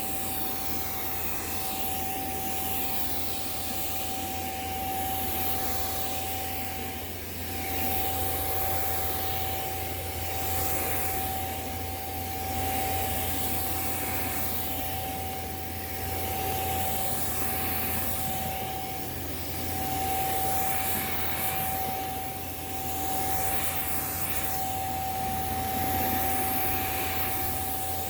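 Amway handheld bedding vacuum cleaner running on a mattress, a steady motor whine over a rushing hiss. The hiss swells and fades about every two seconds as the cleaner is pushed back and forth over the bedding, picking up dust and mites.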